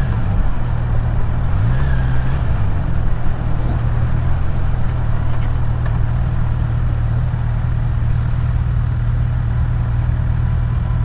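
Kawasaki Z900's inline-four engine running at low, steady revs while riding slowly, with a small rise and fall in pitch about two seconds in, over a steady rushing noise.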